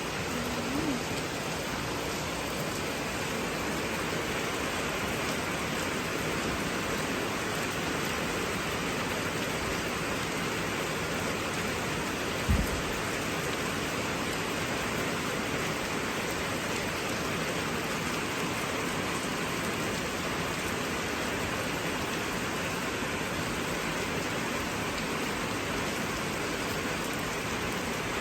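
Heavy rain falling steadily, an even hiss without a break, with a single short low thump about twelve seconds in.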